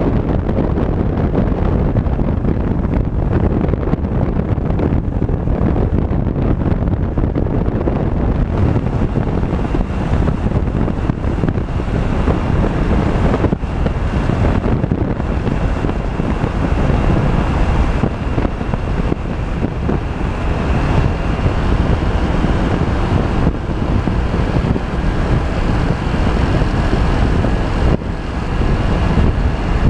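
Steady wind buffeting on the microphone while riding a scooter, over continuous road and engine noise.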